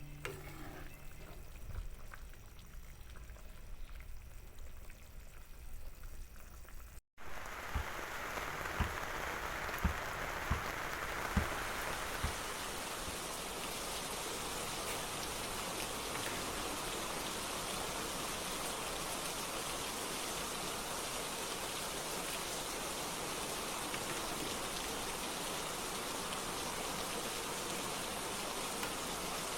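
Rain falling: quieter at first, then a steady, even downpour after a break about seven seconds in, with a few dull knocks shortly after the break.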